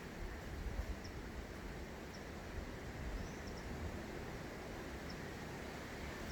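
Outdoor nature ambience: a steady hiss with a low wind rumble on the microphone, and a few faint, short, high chirps scattered through it.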